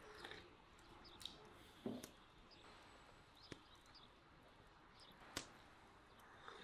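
Near-silent room tone with faint, scattered bird chirps, broken by a few short soft knocks and clicks, the loudest about two seconds in and a sharper click near five and a half seconds.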